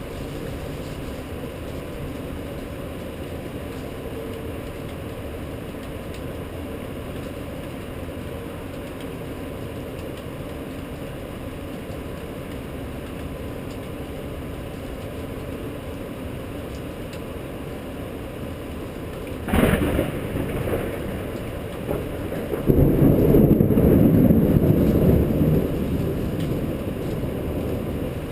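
Steady rain, then a sharp crack of thunder about two-thirds of the way through, followed a few seconds later by a loud rumble of thunder that slowly dies away.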